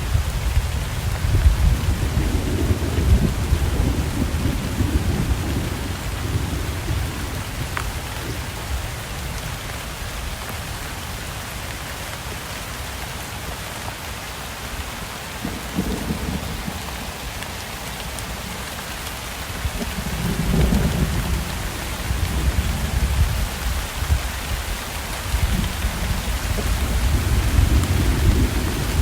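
Steady rain falling, with thunder rumbling low underneath: rolling rumbles in the first few seconds, a lull in the middle, then rumbling again from a little past halfway to the end.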